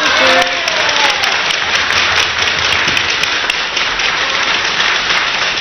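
Arena crowd applauding, a dense steady clapping that eases slightly near the end, with a brief voice cheering at the start: the crowd's reaction to a point won in a table tennis match.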